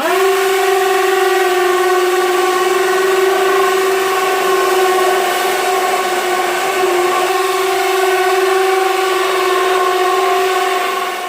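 Small 12 V DC motor spinning a propeller fan at steady full speed: a steady high whine over a rushing hiss of air, starting abruptly and fading out near the end.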